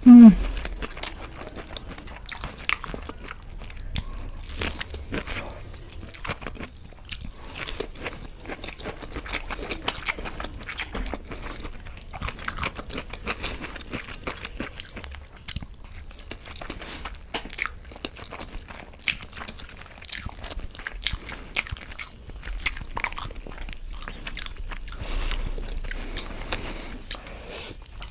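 A person biting into and chewing crunchy fried cauliflower pakoda, with irregular crisp crunches and mouth clicks all through.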